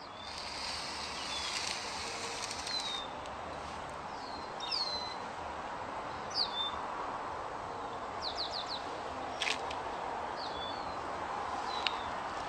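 Small wild birds chirping in the background: short, high, falling chirps every second or two, one a quick triple, over a steady outdoor hiss. A single sharp click about nine and a half seconds in.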